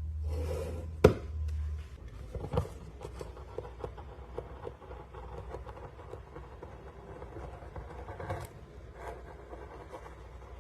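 Leather being worked with hand tools: a sharp tap about a second in and another knock soon after, then a run of light, fairly regular ticks and faint scraping. A low hum stops about two seconds in.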